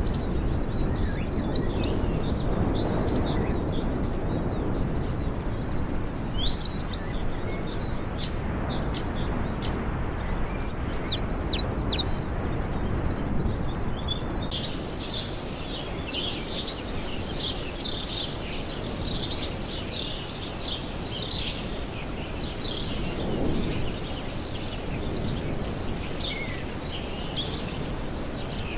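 Many small birds chirping and calling over a steady low rushing background. About halfway through the sound changes abruptly to denser, busier chirping.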